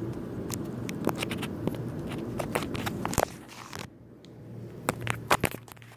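Irregular sharp taps, clicks and scrapes, typical of birds pecking and scrabbling against window glass, over a low steady hum that drops away about halfway through.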